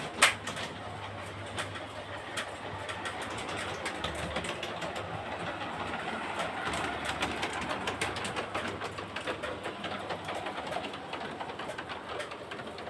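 Large-scale garden-railway model train running along its track, a steady whirr broken by many irregular clicks, with one sharp click just after the start; it grows a little louder toward the middle and eases off again.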